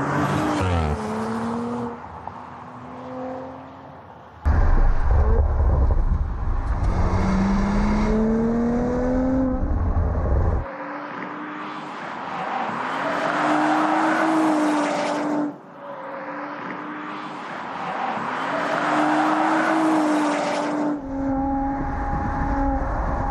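2018 Audi RS4 Avant's 2.9-litre twin-turbo V6 accelerating, its engine note climbing in pitch through the revs, in several short takes joined by abrupt cuts.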